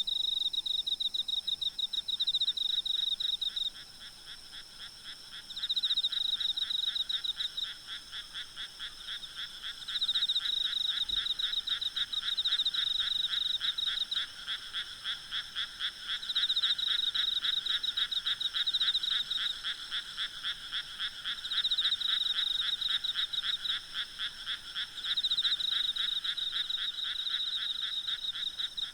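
A chorus of frogs calling in fast, rapidly pulsed trains that swell into loud bouts of a few seconds and ease off in between, over a steady high-pitched trill of night insects.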